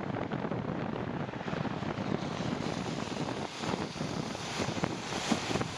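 Wind buffeting the microphone over the steady rush of a bicycle riding a wet trail in the rain, with small crackles throughout.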